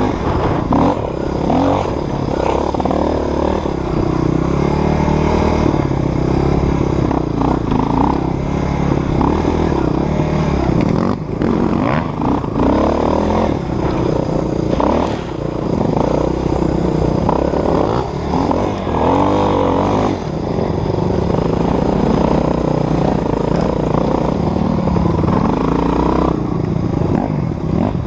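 Dirt bike engine running under a rider's throttle, its pitch rising and falling again and again as it revs up and backs off, with occasional knocks and rattles from the bike over rough ground.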